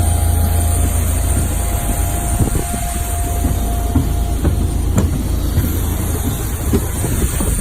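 Steady, loud rumble of a jet's cabin in flight, engine and airflow noise, with a couple of light knocks about four and five seconds in.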